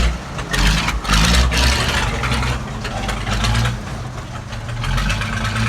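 Massey Ferguson 375 tractor's diesel engine running through a modified exhaust, with a few louder bursts in the first second and a half.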